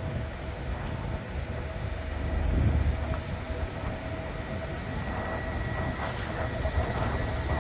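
Trains moving through a main-line railway station: a steady deep rumble with a faint steady hum over it, swelling about two and a half seconds in and again near the end.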